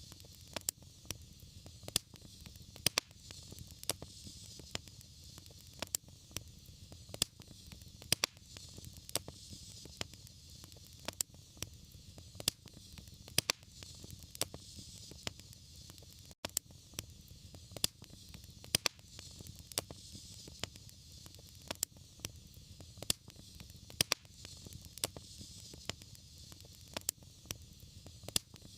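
Wood fire crackling, with irregular sharp pops and snaps, a few a second, over a steady low rumble and soft hiss. The sound cuts out for an instant about halfway through.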